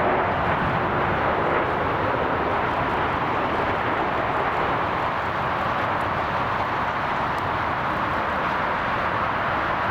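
Jet airliner engine noise, a steady rushing sound that holds at the same level throughout.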